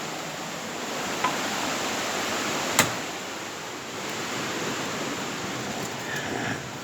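Steady rush of flowing river water, an even hiss with a single sharp click about three seconds in.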